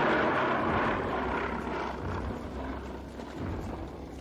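Tyrannosaurus rex roar sound effect: one long, noisy roar, loudest at the start and fading away over about three seconds.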